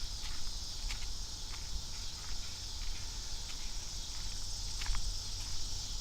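Steady high-pitched chorus of insects, with footsteps every half second to second and a steady low rumble underneath.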